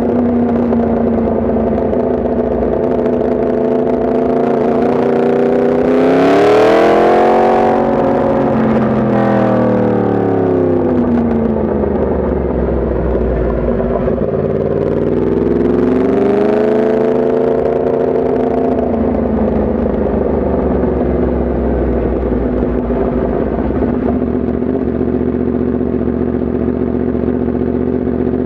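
Yamaha MT-10 SP's crossplane inline-four engine running steadily, then revving up sharply twice, about six and sixteen seconds in, each time dropping back slowly to a steady note.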